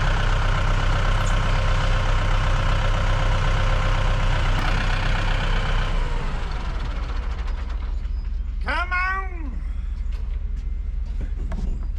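A tractor engine running steadily, which drops away about six seconds in. About nine seconds in comes a single short cry that rises and falls in pitch.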